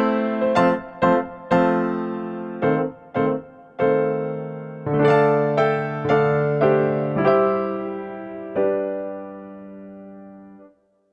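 Background piano music: a slow, gentle piece of struck notes and chords left to ring, ending with a final chord that fades out near the end.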